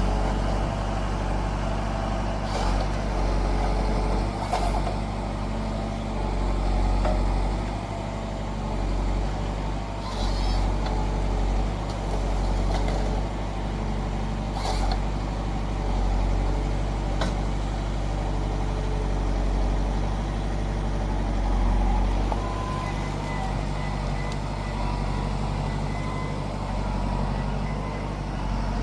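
Forestry harvester with a Nisula 325H head working a tree: its diesel engine runs steadily under load. A handful of short sharp clacks and hisses from the hydraulics and the harvester head come through every few seconds.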